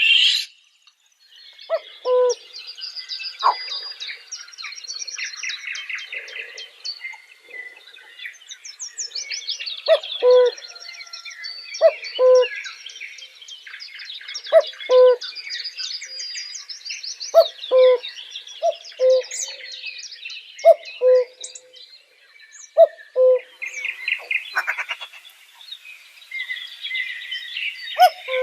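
Birds chirping and twittering continuously, with short low hooting notes, often in pairs, repeating every couple of seconds.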